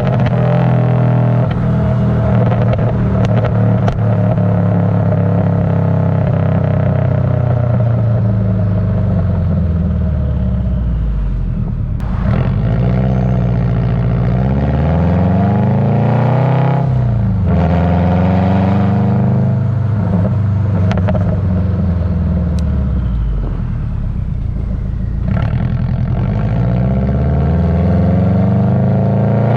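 Exhaust of a tuned Subaru Legacy GT's turbocharged flat-four, with a catless up-pipe, Cobb catted downpipe and axle-back with 5-inch mufflers. The revs hold steady, sink slowly for several seconds, then climb and fall again several times, with a few sharp pops along the way.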